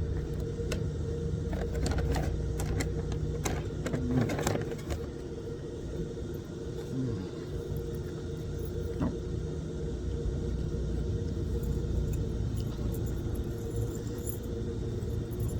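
Steady low outdoor rumble with a constant hum. Scattered light clicks and rattles come in the first five seconds.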